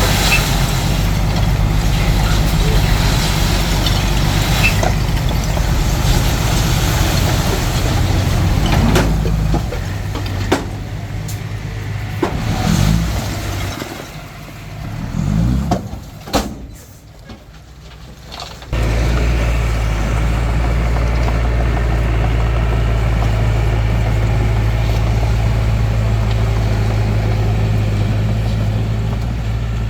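Hitachi DX45M bulldozer's diesel engine running steadily. About ten seconds in it drops to a much quieter stretch with a few knocks and short rising and falling tones. A little before twenty seconds it is suddenly loud and steady again.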